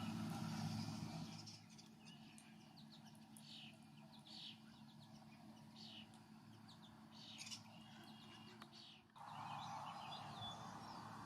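Small birds chirping: short, high, downward-sliding notes repeated every second or so. A steady low hum at the start fades within the first two seconds, and about nine seconds in the background noise abruptly gets louder.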